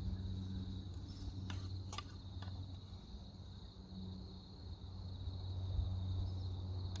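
Crickets trilling steadily in one high, unbroken tone, with a low steady hum beneath and a few faint clicks about one and a half to two and a half seconds in.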